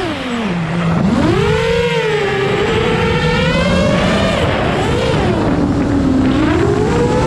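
FPV quadcopter motors and propellers whining up close. The pitch dips low right at the start, then rises and falls smoothly over the next seconds as the throttle changes.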